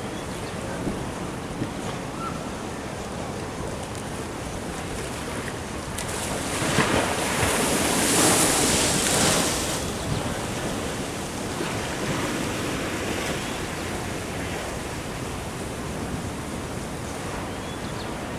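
Ocean waves washing in steadily, with one wave surging and breaking into a louder hiss about a third of the way in before falling back, and wind buffeting the microphone.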